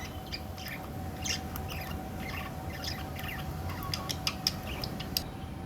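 Small birds chirping: many short, quick chirps, some sliding in pitch, mixed with sharp little clicks.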